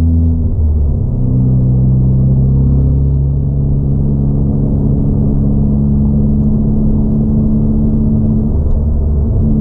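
Ford Fiesta ST180's turbocharged 1.6-litre four-cylinder engine, fitted with a 3-inch aftermarket exhaust and intake, running under way on track, heard muffled from inside the cabin. The steady engine note changes pitch about half a second in and again near the end.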